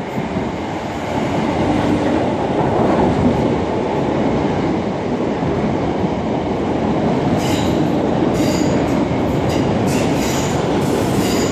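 Electric passenger train running on the rails with a steady rumble, and high-pitched metallic wheel squeals coming in from about seven seconds in.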